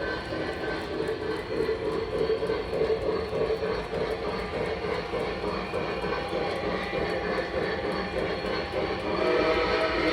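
Lionel Legacy Blue Comet O gauge model train running on its track, a steady mechanical rumble of the locomotive and cars rolling.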